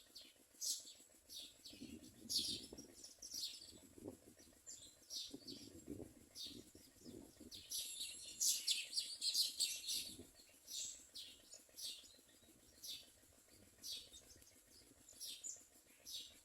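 Common mynas at the nest giving short high chirps, about one a second, with a dense flurry of chirps about eight to ten seconds in. Faint soft rustling sounds under the chirps in the first half.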